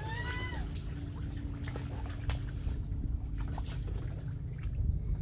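Water trickling and dripping around a kayak, over a steady low rumble of wind on the microphone, with scattered small knocks. A single short, high, arching call sounds right at the start.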